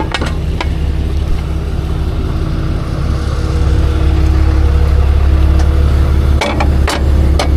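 A vehicle engine idling steadily with a deep rumble that grows a little louder about halfway through, with a few sharp clicks or knocks near the end.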